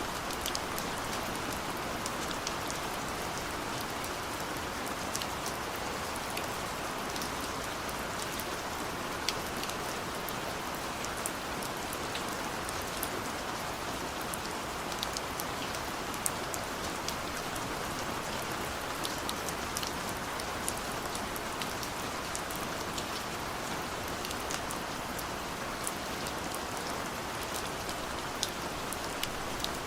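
Steady rain falling, an even hiss with scattered sharp drip and splash ticks of single drops hitting a surface.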